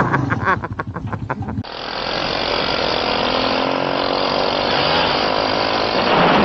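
A motorcycle engine running steadily with a rough, buzzing note that rises slowly in pitch. Before it, a rapid string of short knocks breaks off abruptly about a second and a half in.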